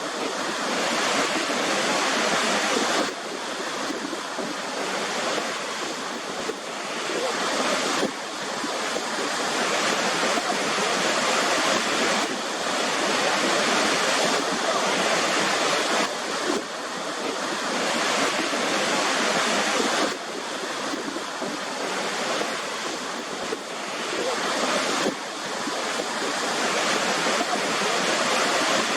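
Waterfall: water rushing steadily, with sudden small drops in loudness every few seconds that build back up.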